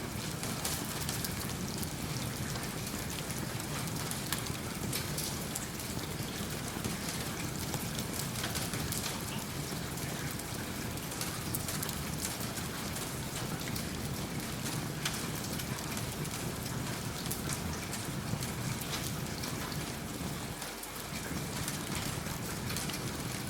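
Steady rain falling, an even hiss dotted with many small ticks, mixed with the low crackle of a wood fire in a fireplace. The low part of the sound briefly drops out just before 21 s.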